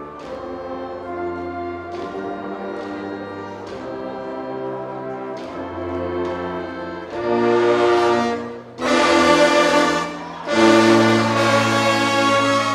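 High school marching band brass section playing sustained chords over a steady drum beat, building to loud full-band chords about seven seconds in, with two brief cut-offs between them.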